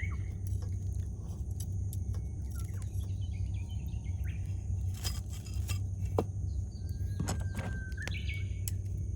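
Wood campfire crackling with scattered sharp pops over a low steady rumble, while wild birds call in short notes and, near the end, a drawn-out whistle followed by a higher call.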